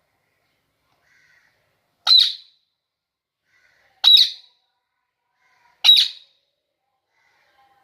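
Indian ringneck parrot squawking three times, short harsh calls about two seconds apart, each preceded by a faint softer note.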